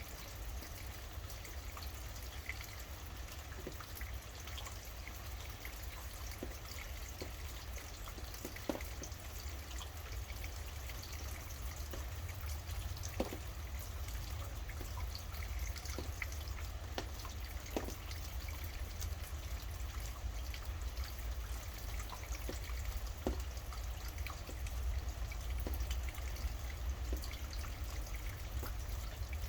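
Steady rain falling, with scattered single drops dripping as sharp clicks, over a steady low rumble.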